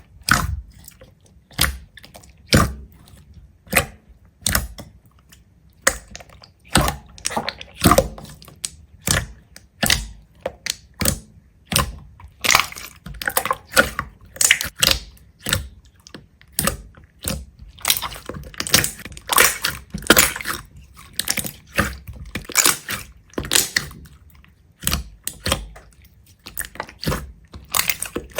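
A long run of crisp crunches and snaps, roughly one or two a second, some in quick clusters, like something brittle being cut, crushed or broken.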